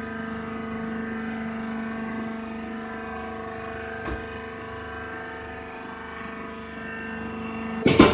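Hydraulic wood chips baler running with a steady mechanical hum from its motor and pump. There is a short knock about four seconds in and a louder bang near the end.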